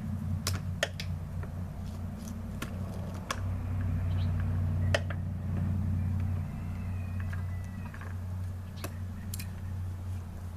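Scattered sharp clicks and knocks from hand work on a push mower's gas tank and fuel line, over a steady low rumble.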